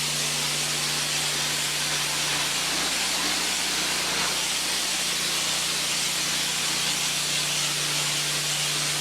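Honda 8 gpm pressure washer running, its water spray hissing steadily over the engine's even hum.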